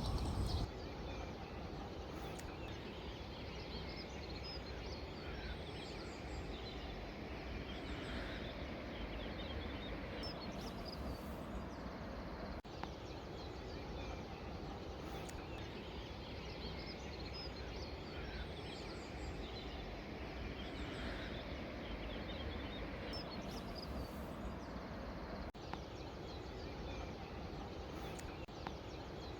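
Faint outdoor ambience: small birds chirping here and there over a steady low background rumble.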